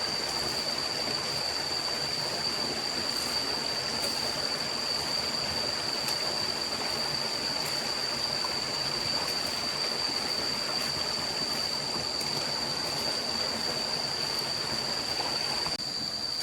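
Steady rushing of a forest stream, with a constant high, thin whine running through it. Near the end the rushing suddenly drops in level.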